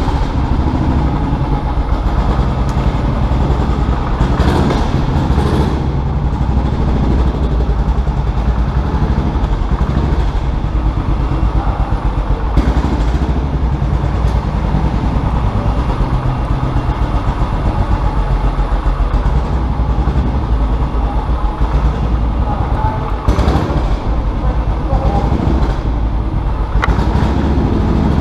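Custom motorcycle engine running steadily and loudly, with a dense low pulsing note.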